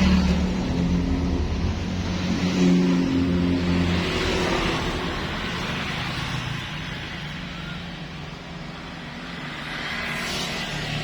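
1996 Suzuki Carry 1.0's four-cylinder engine running. It is revved up a couple of seconds in, then eases back to a steady lower run.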